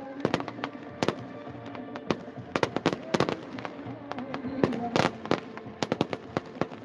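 Fireworks display: a rapid, irregular run of sharp bangs and crackles, some in quick clusters, over music with held notes.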